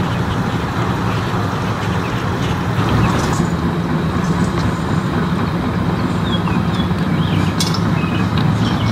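Classic car engines running as the cars roll slowly past, a steady low rumble.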